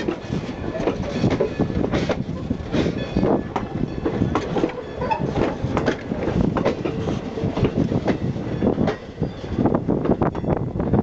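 Strasburg Rail Road passenger train rolling past, its wheels clacking and knocking over the rail joints with a steady rumble.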